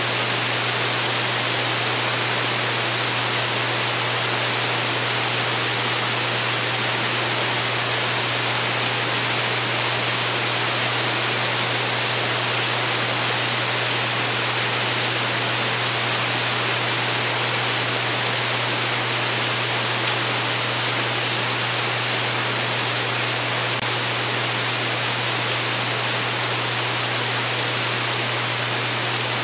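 Steady rain on a porch roof, an even hiss that holds without let-up, over a steady low hum.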